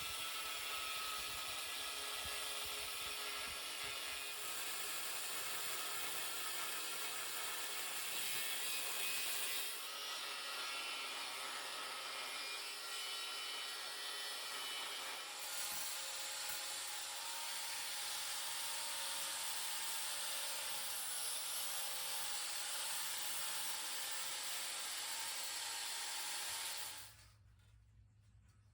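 Angle grinder cutting a notch out of 1/8-inch steel plate: a steady, hissing grind that changes slightly a couple of times and stops abruptly near the end.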